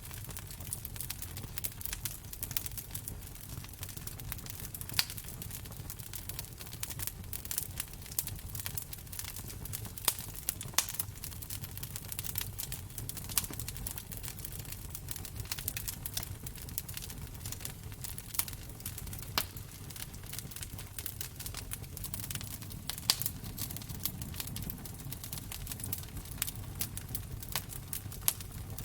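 Wood fire crackling in a fireplace: a steady low rumble under constant fine crackle, with a sharper pop every few seconds.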